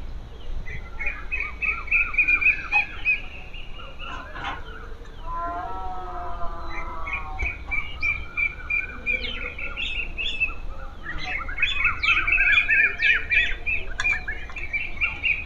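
Birds chirping and calling in leafy trees: runs of rapid, high repeated chirps lasting a few seconds each, overlapping, with a lower wavering call for about two seconds near the middle.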